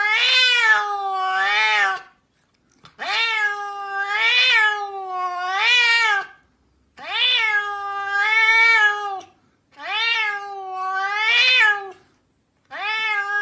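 A cat meowing in long, drawn-out calls: about five bouts with short pauses between them, each rising and falling in pitch several times.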